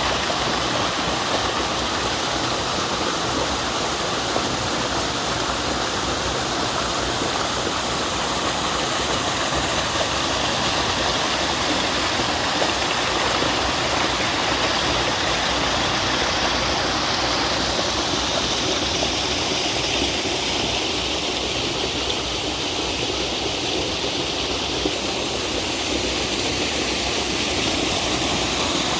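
Water falling over a two-tiered twin waterfall in a mountain valley, with a steady, even rushing and splashing.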